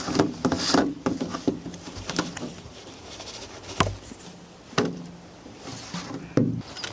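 Rain pattering, with scattered knocks and clicks of things being handled close by.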